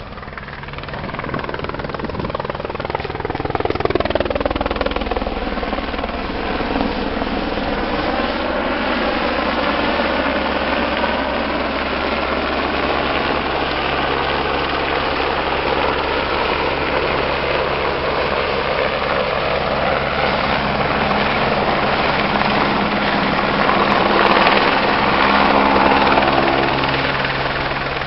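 Eurocopter AS350 B3 Écureuil helicopter with its Arriel turboshaft and main rotor running, flying nearby and growing louder over the first few seconds. Its pitch dips and comes back up a few seconds in, and it gets louder again near the end.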